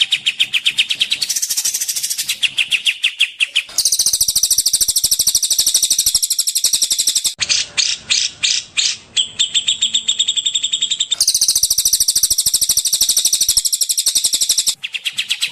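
Recorded songbird song used as a masteran (training song): very fast, high, trilled chirping. The pattern switches suddenly every three or four seconds, and a slower run of separate notes comes about halfway through.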